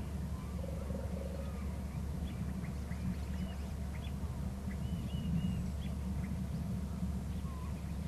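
Birds calling in short, scattered chirps and squeals over a steady low hum, with a flurry of calls about five seconds in.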